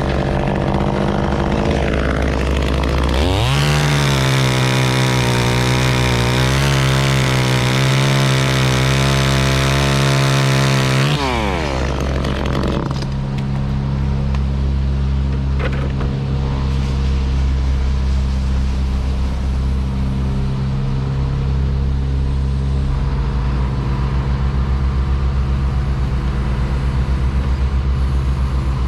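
Chainsaw revving up sharply about three seconds in, held at high revs for about eight seconds, then dropping back off. A machine engine idles steadily underneath throughout.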